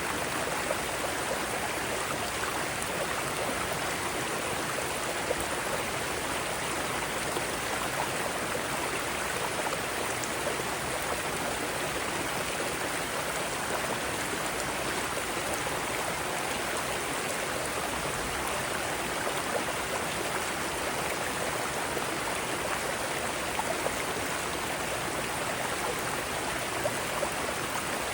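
Mountain stream rapids, water cascading over rocks in a steady, even rush.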